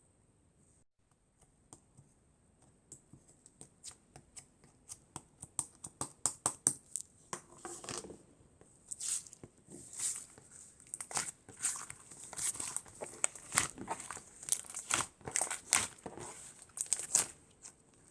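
Slime being handled by hand, giving off sticky crackling pops and clicks. They start sparse about two seconds in and grow into a dense, louder run of snaps.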